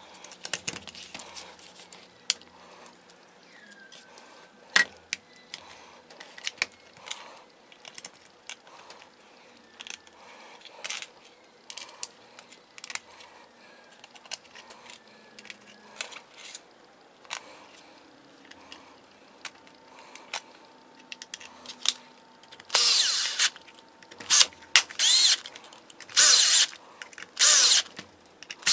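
Scattered clicks and knocks of a DeWalt DCD710 cordless drill/driver's housing and parts being handled and fitted back together. Near the end the drill is run in several short bursts on the trigger, its newly replaced motor working.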